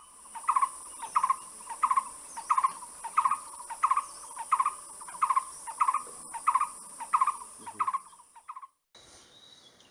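A bird's hollow, hoot-like call repeated about twice a second, over a steady high-pitched insect drone; both stop suddenly near the end.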